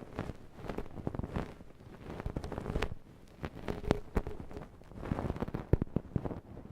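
Close-miked ear-cleaning tools working inside a silicone ear model: irregular scraping and rustling, with sharp clicks, the loudest about three seconds in and near the end.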